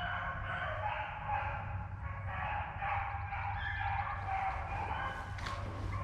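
A pack of rabbit hounds baying continuously, their overlapping calls faint and distant, as they run a rabbit on its scent trail.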